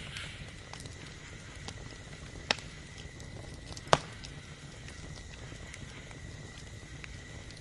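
Campfire burning with a steady low crackle and scattered small ticks, broken by two sharp wood pops about two and a half and four seconds in, the second the loudest.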